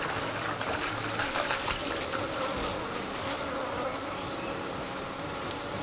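Insects shrilling in one continuous high-pitched buzz that holds a steady pitch.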